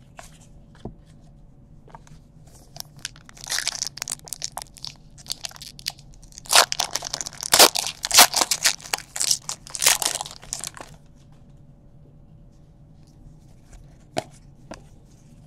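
Foil trading-card pack wrappers being torn open and crumpled: dense crackling and tearing from about three seconds in until about eleven seconds in, loudest in the second half.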